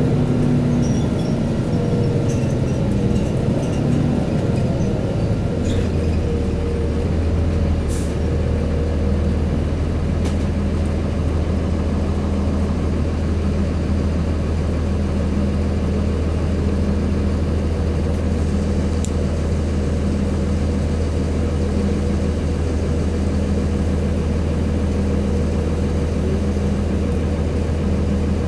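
Cummins ISC inline-six diesel engine of a 2002 Blue Bird CS transit bus. Its note shifts for the first few seconds, then settles into a steady idle about six seconds in. A few short sharp sounds come between about six and ten seconds in.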